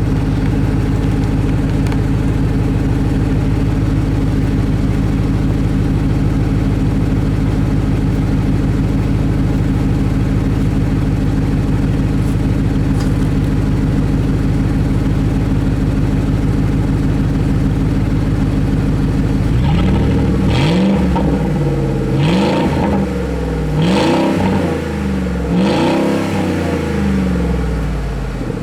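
A 2006 Ford F-150's 4.6-litre V8 with an aftermarket exhaust idling steadily, then revved in four quick throttle blips starting about twenty seconds in, each rising and falling back, before settling to idle again.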